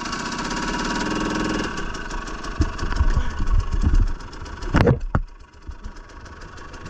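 Dirt bike engine running at steady revs, easing off about two seconds in. Then a run of irregular knocks and thuds follows, the loudest a sharp crack near five seconds, before the engine carries on more quietly.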